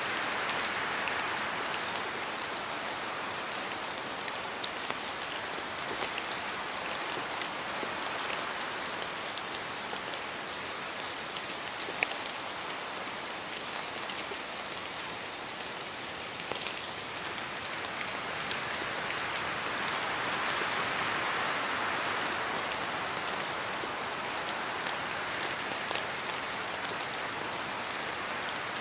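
Steady rain falling, with individual drops tapping sharply here and there; the rush swells a little about twenty seconds in.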